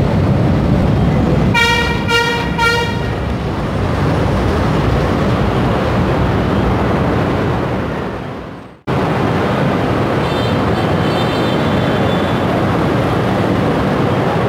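Light-rail train horn sounding three quick toots about two seconds in, over the steady rumble of a train running into the station. The sound fades and cuts off for a moment near the middle, then the steady train and station rumble returns, with a faint high squeal a little later.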